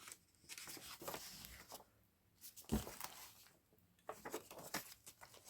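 Faint rustling of paper as the pages of a handmade junk journal are handled and turned, in three short stretches, with a soft tap near the middle.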